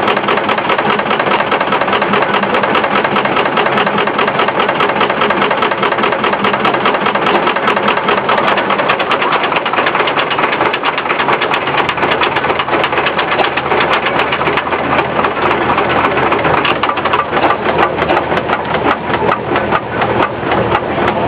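Case steam traction engine running, its exhaust beating rapidly and steadily along with mechanical clatter from the belt-driven sawmill.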